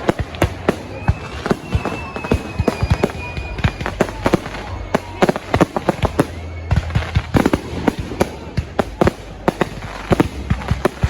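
Fireworks going off in a rapid, irregular run of bangs and sharp pops. A thin high whistle runs for a few seconds starting about a second in.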